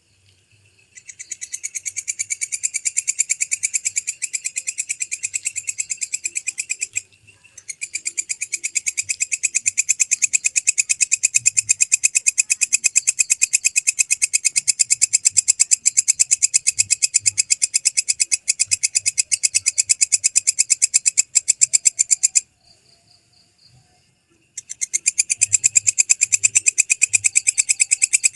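Walang kecek katydid (Mecopoda elongata) singing: long, high-pitched trains of rapid, even ticking pulses, in three runs broken by a short pause about seven seconds in and a two-second pause past the twenty-two second mark.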